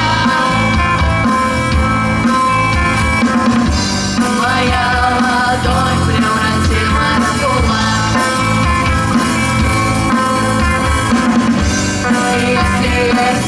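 A rock band playing live, with a drum kit and sustained pitched instrument parts over a steady beat.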